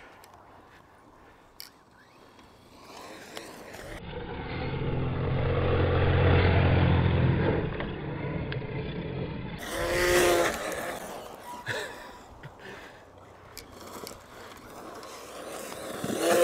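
Arrma Mojave 4S BLX brushless RC truck being driven on dirt. From about three seconds in, its motor and tyres swell to a peak and fade. About ten seconds in comes a short burst of motor whine that rises and falls in pitch, followed by scattered small knocks and scrapes.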